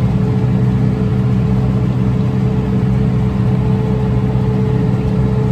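Tractor engine running steadily while baling hay, a constant low drone with a steady higher hum above it.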